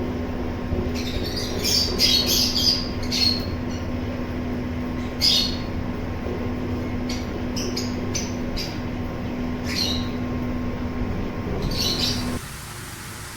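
Small pet birds chirping and squawking in short, scattered high calls, over a steady low hum that cuts off about twelve seconds in.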